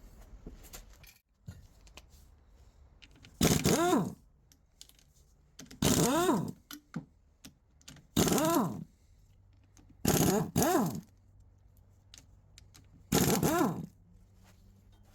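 A small motor whirring in six short bursts of about half a second, each rising and falling in pitch, over a low hum.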